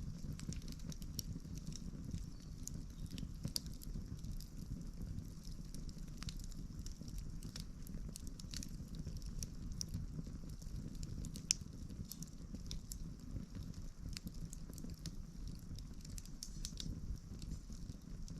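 Wood campfire burning: frequent small crackles and snaps over a low steady rumble, with one sharper pop about eleven seconds in.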